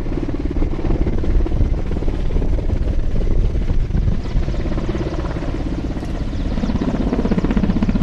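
Firefighting helicopter flying close by, the fast, steady chop of its rotor blades over a low engine rumble.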